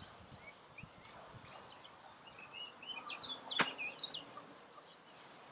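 A small songbird twittering in a run of short, quick chirps, with one sharp click about three and a half seconds in.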